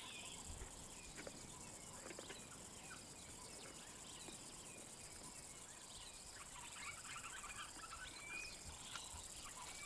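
Faint natural ambience of scattered small chirping calls, busier in the second half.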